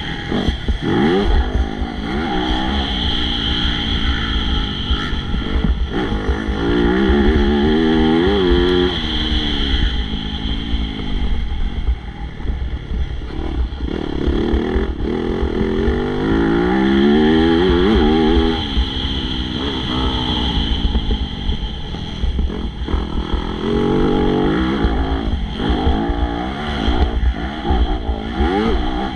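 MX2 motocross bike engine revving hard and dropping back again and again as it races, its pitch climbing through each gear and falling off between surges.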